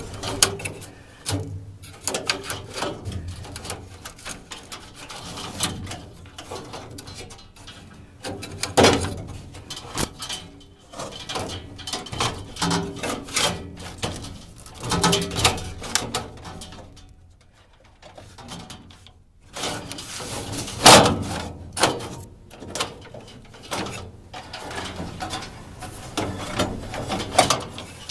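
A washable furnace filter being bent and worked into its slot in the furnace: irregular scraping, rustling and knocking, with sharper knocks about nine seconds in and again about twenty-one seconds in.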